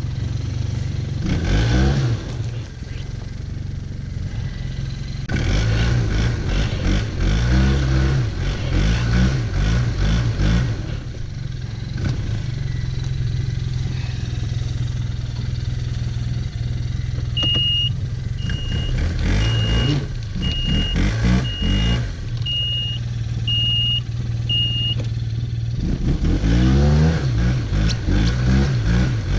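Four-stroke engine of a 2019 Arctic Cat Norseman 3000 snowmobile idling and revving up in repeated surges while the sled is stuck in deep snow. A short electronic beep repeats about once a second for several seconds midway.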